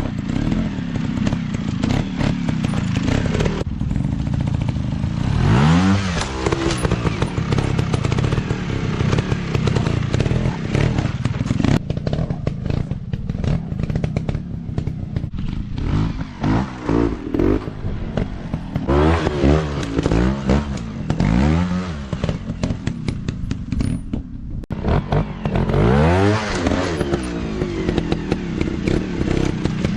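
Dirt bike engines running with repeated throttle blips, the pitch rising and falling in short bursts several times, over a steady engine drone.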